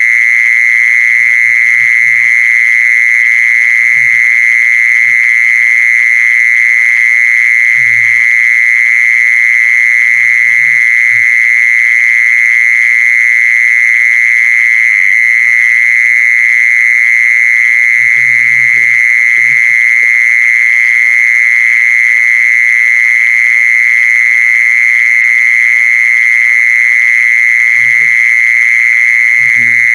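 Cicada (the Isan 'jee-son' insect) calling in one loud, unbroken, even high-pitched buzz, the sound used to lure the insects.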